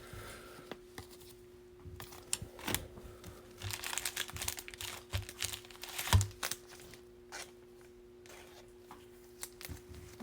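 Trading card pack foil wrapper crinkling and tearing as the cards are handled, in irregular crackles, busiest from about two to seven seconds in; a faint steady hum underneath.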